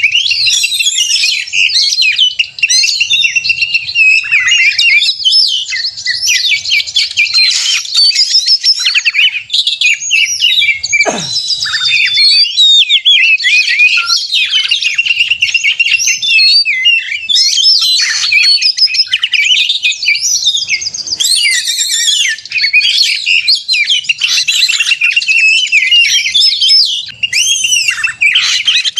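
Oriental magpie-robin (kacer) singing hard and without a break: a loud, dense stream of rapid, varied whistles, trills and chattering phrases, the excited fighting song used to provoke other males.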